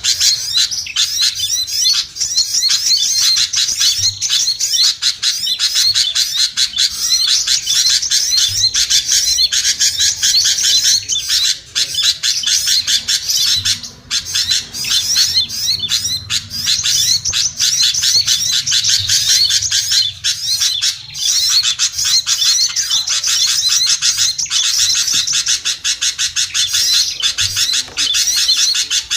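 A dense, unbroken chorus of many small birds chattering: rapid, high-pitched chirps overlapping one another. It is a bird-lure (suara pikat) recording, used to call small birds down.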